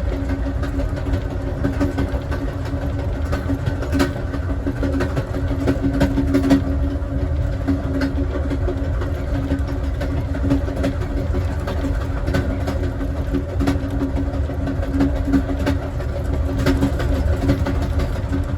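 Amtrak Southwest Chief passenger train running along the track, heard inside a passenger car: a steady low rumble with a constant hum and a few short clicks and knocks.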